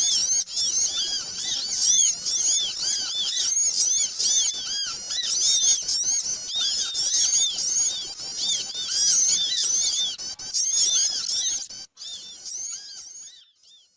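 Many small birds chirping all at once in a dense, busy chorus of short, rapid, high-pitched arched chirps: a bird-lure call recording for attracting small birds. The chorus thins and fades out over the last couple of seconds.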